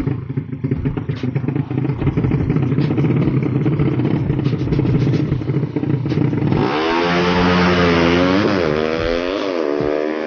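Tuned 200cc Yamaha Jupiter underbone motorcycle engine running with a low rumble and some clattering. Then, about two-thirds of the way in, it revs loudly, the pitch dipping and climbing twice as the throttle is blipped.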